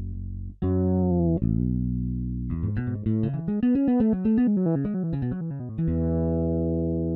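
Solo fretless electric bass from Toontrack's EZbass Fretless expansion playing a MIDI pattern: a few held low notes, a quick run of notes up and back down in the middle, then a long held note that stops abruptly near the end.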